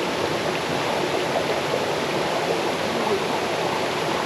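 Cascading forest stream at a small waterfall: water rushing and babbling over stones in a steady, unbroken wash, fullest in the low-middle range.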